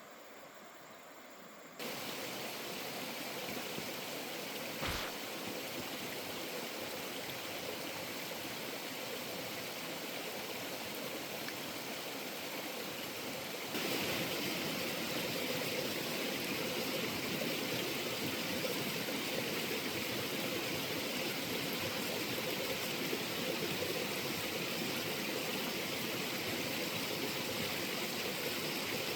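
Steady rush of flowing water, growing louder in two sudden steps, about two seconds in and again about halfway through, with a single short knock about five seconds in.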